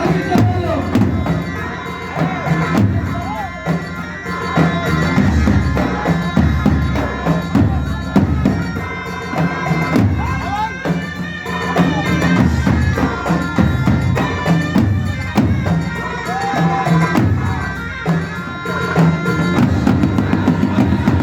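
Traditional Arab wedding music: a reedy wind instrument holds steady notes over a running drum and percussion beat.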